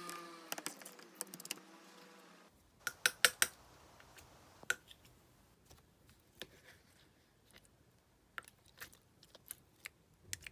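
Scattered sharp clicks and small pops of clear slime being handled, a quick cluster of three about three seconds in and single clicks spread out after.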